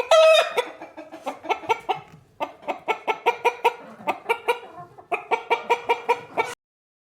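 Hen clucking: a longer call at the start, then quick runs of short clucks, about four to five a second, in three bouts, stopping abruptly about six and a half seconds in.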